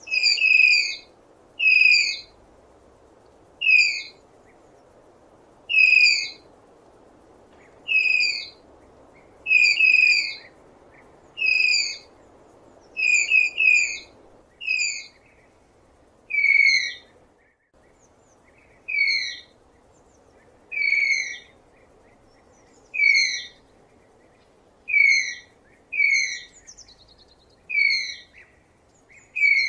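Tapir giving short, high-pitched squealing whistles, each dipping slightly in pitch, about one every two seconds and sometimes in quick pairs, over a steady low hiss.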